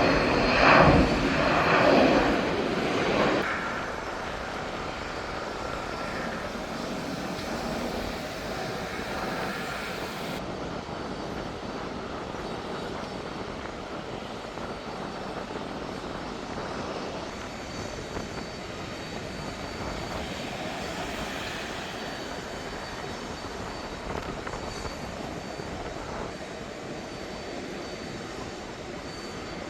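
Jet airliner's engines heard from outside: louder for the first three seconds or so, then settling to a steady, fainter engine noise.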